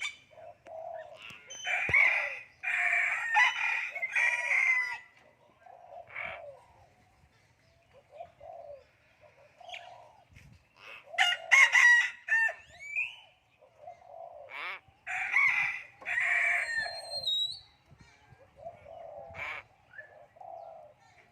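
Loud bird calls in three long bursts of two to three seconds each, with softer short calls in between.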